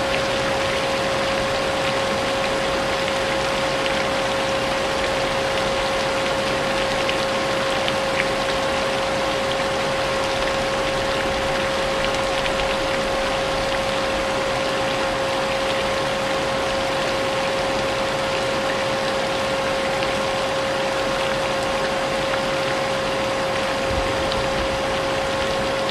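Vacuum cleaner running steadily with a constant motor whine, blended with the even hiss of falling rain.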